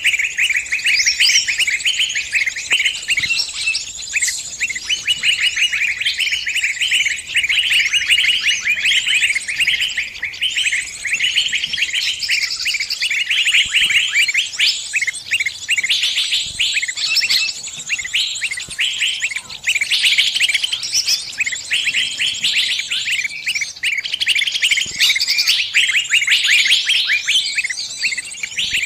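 Small bird giving distress calls as if trapped: rapid, unbroken high-pitched chirping with no pause, the kind of call that draws other birds in to help.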